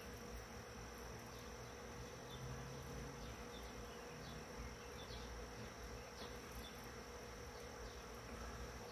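Faint steady hum with a thin high whine above it and a few soft ticks.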